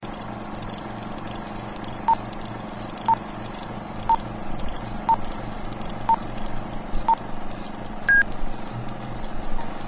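Electronic countdown beeps: six short, even beeps a second apart, then one higher, slightly longer beep, over a steady background hum.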